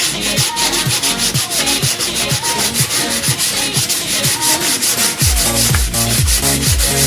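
Wood being sanded: a steady, dense hiss of abrasive on wood. A dance-music track with a steady kick-drum beat plays underneath.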